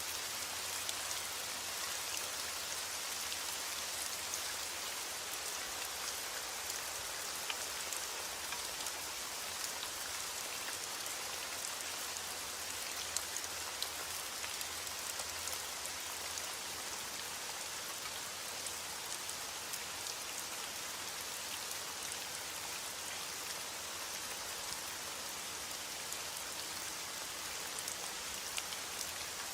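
Steady rain falling, an even hiss with scattered individual drop ticks and no thunder.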